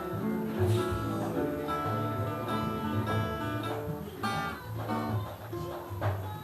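Music with acoustic guitar strummed, an instrumental passage without singing.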